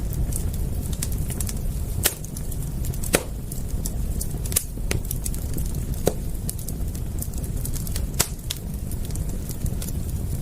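Wood fire crackling: sharp pops at irregular gaps of a second or two over a steady low rumble.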